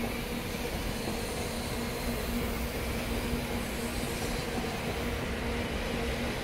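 Shinkansen bullet train rolling past as it leaves the depot: a steady rumble of wheels on rail with a low, steady hum over it.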